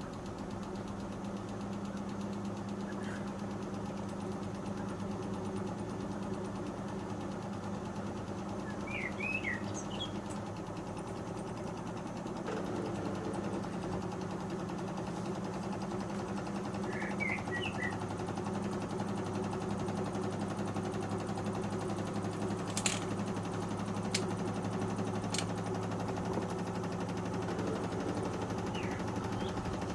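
Panasonic NA-147VB2 inverter washing machine running with a steady motor and drum hum. A few sharp clicks come about two-thirds of the way through.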